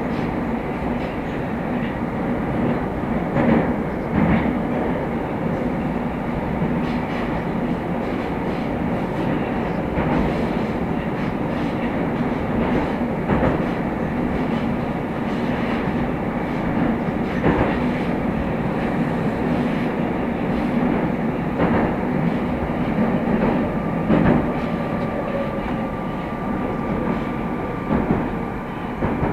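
Moscow Metro train running between stations: a steady rumble with wheels clacking over rail joints every few seconds. In the last few seconds a steady whine sets in as the train slows for the next station.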